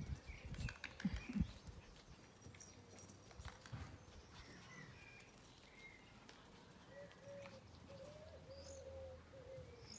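Birds calling in the background: a few short chirps, then a dove cooing in a low, wavering tone over the last few seconds. A few dull thumps come in the first second or so and are the loudest sounds.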